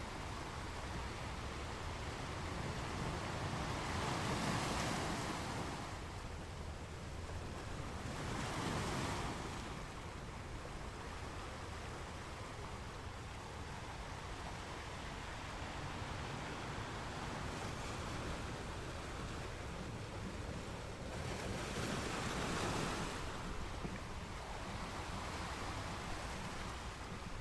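Ocean waves breaking on a shore: a steady wash of surf, with three louder wave crashes, about four, nine and twenty-two seconds in.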